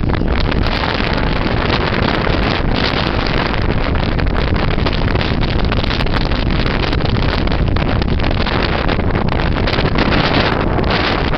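Gale-force wind buffeting the microphone aboard a small anchored sailboat: a loud, unbroken rush with no let-up.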